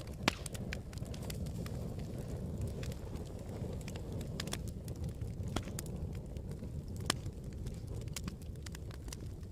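Campfire burning: a steady low rumble of flames with irregular sharp crackles and pops, the loudest snaps shortly after the start and about seven seconds in.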